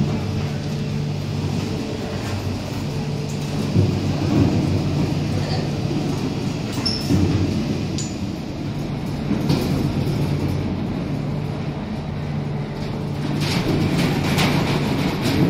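A vehicle running steadily: a low engine hum over continuous rumble, with a few faint clicks and knocks.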